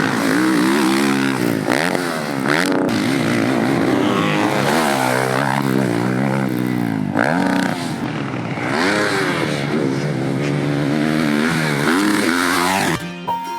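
Dirt bike engine revving, its pitch climbing and dropping over and over as the throttle is worked while riding. Music comes in just before the end.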